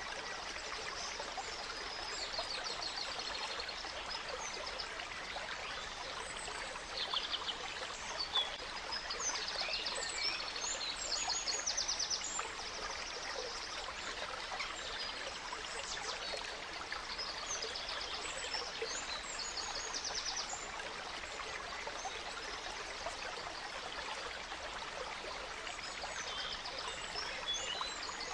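A gentle stream running steadily, with several songbirds singing and chirping over it in quick trills and short notes, busiest in the middle stretch.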